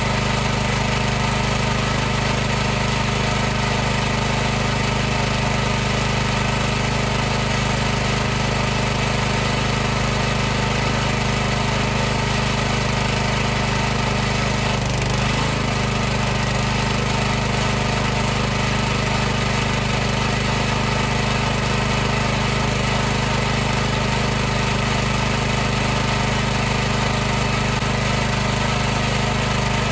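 High-pressure washer's pump and motor running steadily with a constant hum, the pitch wavering briefly about halfway through.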